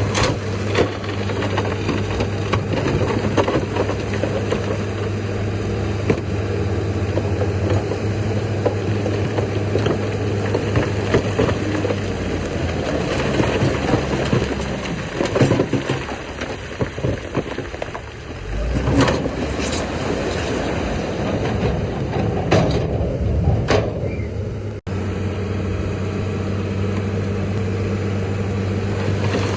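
Heavy diesel earthmoving machinery running steadily, with scattered knocks and clanks over the engine. The engine note changes about twelve seconds in, and several sharp knocks follow in the second half.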